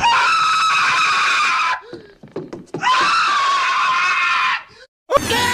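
Two long, high-pitched cartoon screams, each held for nearly two seconds, with short, faint sounds in the gap between them. Music starts near the end.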